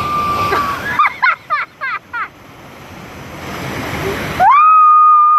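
High-pitched shouts and screams over steady rushing water. There is a short held cry at the start and a quick run of falling yelps about a second in. A long, loud held scream begins near the end.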